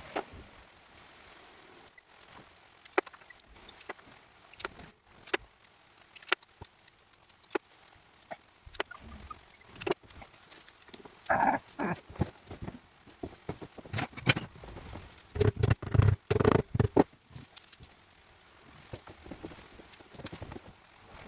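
Metal hand tools and loose screws clicking and clinking as screws are undone on a motorcycle's cover. Scattered sharp clicks, with two denser runs of knocks about eleven and sixteen seconds in.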